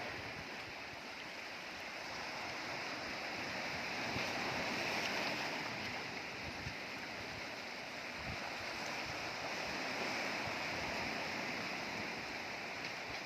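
Sea waves washing on the shore: a steady wash of surf that swells and eases, loudest about five seconds in and again near ten seconds.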